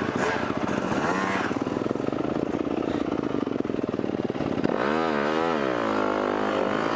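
Four-stroke motocross bike engine running under way as it is ridden, heard through a helmet-mounted camera's microphone. Its pitch wavers up and down with the throttle about five seconds in.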